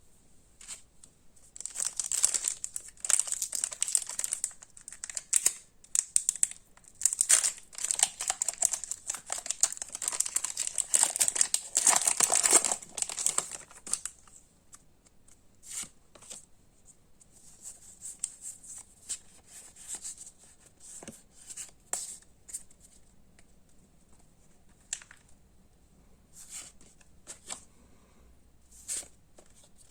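Pokémon card packaging being torn open, with crinkling plastic or foil wrapping for about twelve seconds. After that come only scattered light rustles and clicks of handling.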